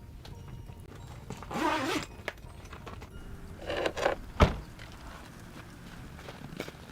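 Two short rustling, scraping bursts, then a single sharp knock about four and a half seconds in, over a low steady rumble.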